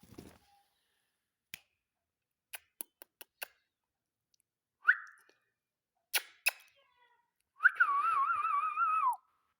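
Indian ringneck parakeet whistling: a short note that rises and falls near the middle, then a warbling whistle about a second and a half long that wavers up and down and drops at the end. Scattered sharp clicks come in between.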